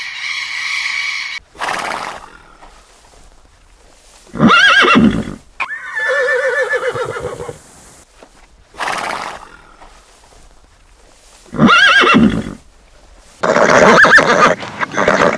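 An animal calling several times, with loud pitched calls a few seconds apart, each rising then falling in pitch. A fluttering, wavering call follows the second one, and a longer, noisier stretch of calling comes near the end.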